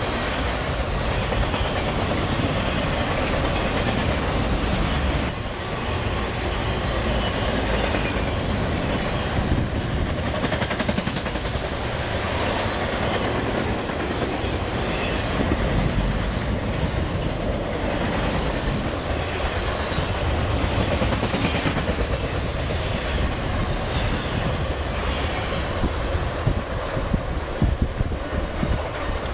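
A train rolling past on the track, its wheels running over the rails without a break, with brief high wheel squeals several times.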